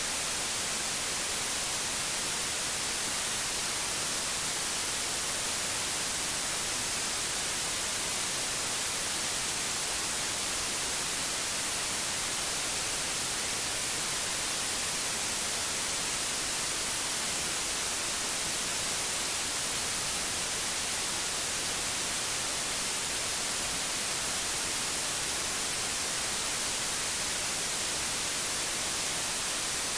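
Steady white noise: an even hiss that does not change, brightest in the high treble.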